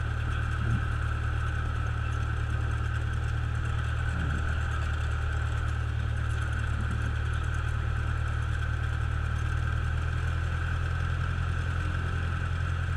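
Cessna light aircraft's piston engine running steadily, a constant drone with no change in power.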